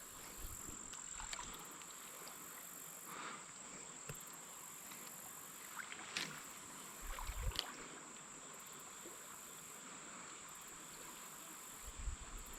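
Faint insects trilling: one steady high note runs throughout, with a higher pulsing chorus that starts and stops every second or two. A few soft knocks and rustles come about six to eight seconds in.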